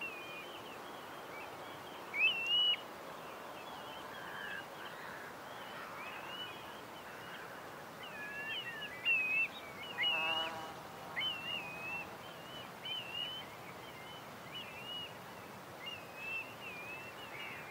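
Birds calling: many short, high chirps and whistles repeating throughout over a faint steady hiss, with one lower call about ten seconds in.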